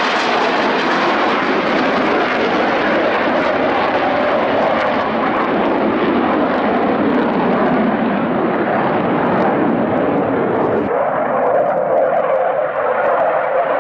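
Loud, steady jet noise from a Blue Angels F/A-18 Hornet's twin General Electric F404 engines as it flies by, the sound slowly growing duller, with an abrupt shift about eleven seconds in.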